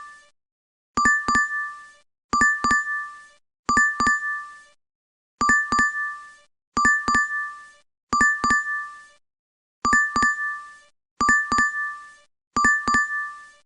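DoorDash app notification chime repeating: a quick cluster of three or four bright dings, again about every second and a half with short silent gaps.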